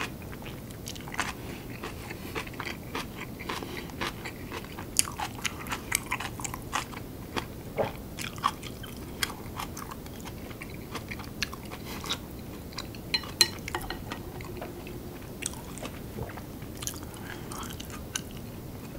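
A man chewing a mouthful of curry rice and kimchi close to a sensitive microphone: irregular crisp crunches and wet mouth clicks.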